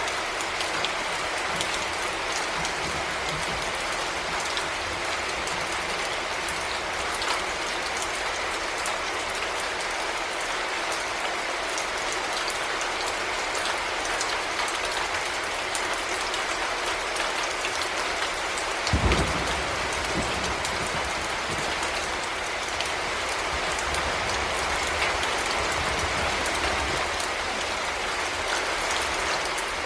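Heavy rain falling steadily, a dense, even hiss of drops. A brief low thump comes about two-thirds of the way through.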